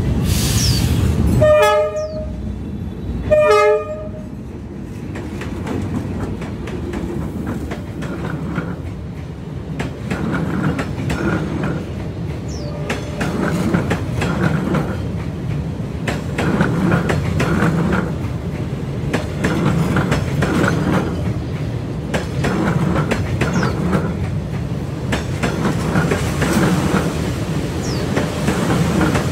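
Train horn sounding two short blasts about two seconds apart. Then a passenger train's coaches roll past at very close range with a steady rumble and a regular, repeating clatter of wheels over the rails.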